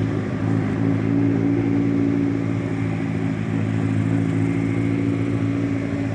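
A vehicle engine idling steadily, holding an even, unchanging pitch.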